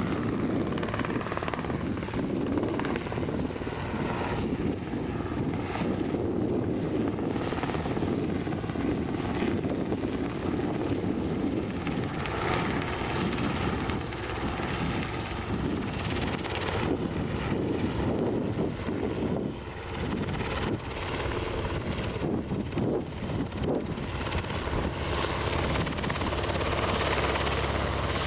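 Cessna 172's piston engine and propeller running at low power with a steady, uneven drone. It grows a little louder and deeper over the last few seconds.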